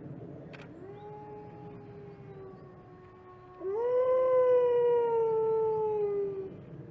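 Wolf howling: a quieter, long, level howl about a second in, then a louder howl that rises sharply at about three and a half seconds, slowly sinks in pitch and ends near the end.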